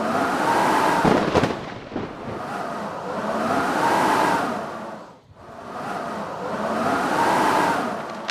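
Howling blizzard wind that swells and fades in long gusts, its whistling pitch rising and falling, with a few sharp knocks about a second in.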